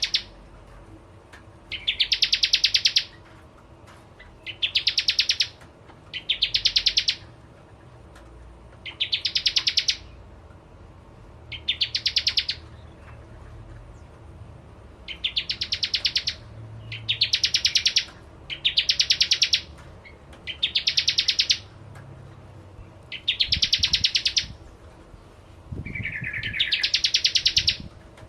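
Bar-winged prinia (prenjak/ciblek) singing: about a dozen short, fast rattling trills of clicking notes, repeated every second or two.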